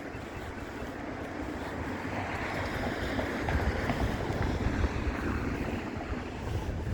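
City street ambience: traffic noise swelling and easing as a vehicle passes, with a low rumble of wind on the phone's microphone.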